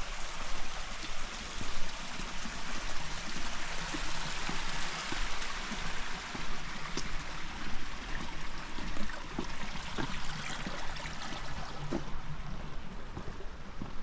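Steady rushing of rain and running water, dotted with small drips and taps.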